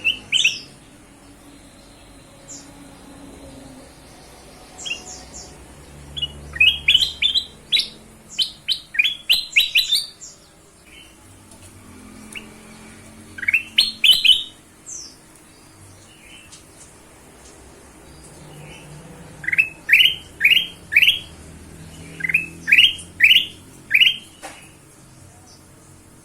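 Kutilang emas bulbul singing: short phrases of quick, clear chirping notes, often four or five in a row, repeated several times with pauses between.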